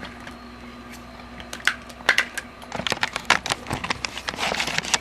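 A run of short, irregular clicks and taps, sparse at first and coming thick and fast from about two seconds in.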